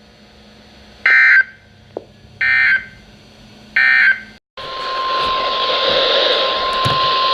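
Three short warbling data bursts of the Emergency Alert System end-of-message code. After a brief dropout, a steady single-pitch weather radio alert tone starts about four and a half seconds in over radio hiss, announcing the next National Weather Service alert.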